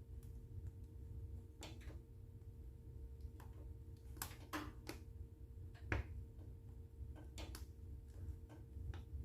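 Wood fire burning in a fireplace: irregular crackles and pops over a low rumble, with the loudest pop about six seconds in.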